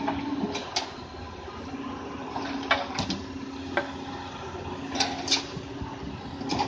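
Doosan DX200A hydraulic excavator at work loading rock-soil, its engine and hydraulics running in a steady rushing hum. Sharp knocks and clacks of rock and steel break through it several times, the loudest a pair about five seconds in.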